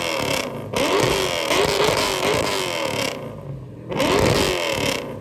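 Ford Mustang 5.0 V8 revved hard through a loud exhaust in repeated throttle blips, the pitch climbing and falling. It drops back briefly about half a second in and again around three seconds in.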